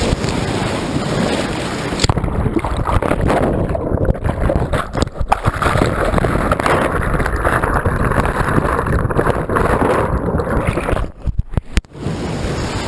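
Rushing whitewater with wind buffeting the microphone. From about two seconds in the sound turns muffled, losing its hiss, with brief dropouts near the end.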